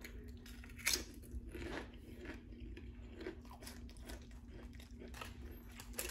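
Close-up crunching and chewing of a potato chip, a run of short sharp crunches with the loudest about a second in.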